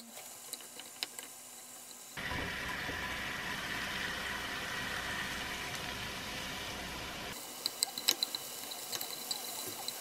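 Beef slices and onion frying in a pan, with chopsticks clicking against it. From about two seconds in to about seven seconds a louder steady rushing noise with a low rumble covers it; it starts and stops abruptly, and then the sharper chopstick clicks and light sizzle return.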